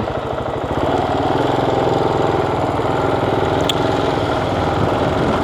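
Motorcycle engine running steadily beneath the rider, heard from on the bike, getting a little louder about a second in.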